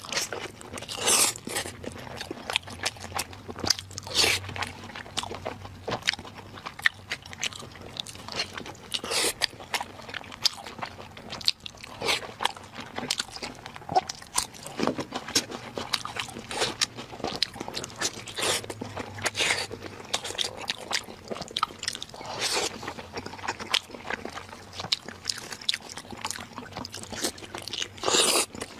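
A person eating close to the microphone, chewing and crunching food with many irregular sharp clicks and wet smacks.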